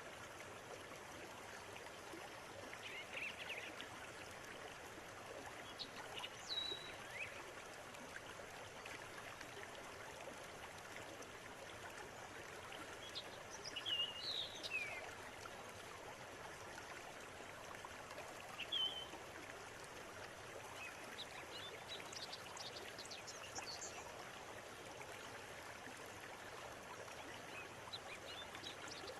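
River water flowing steadily, with small birds chirping now and then over it; the loudest calls come about halfway through.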